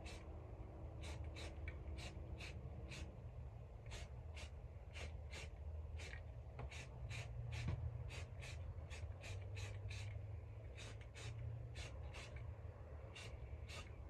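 Aerosol spray can of primer sprayed in many short hissing bursts, irregularly spaced at about two to three a second, over a steady low hum.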